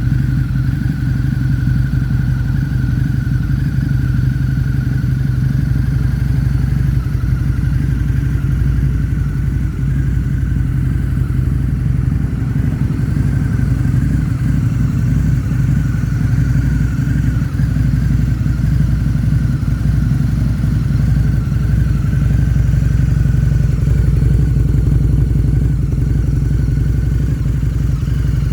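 Harley-Davidson V-Rod Night Rod's liquid-cooled Revolution V-twin engine idling steadily, with no revving.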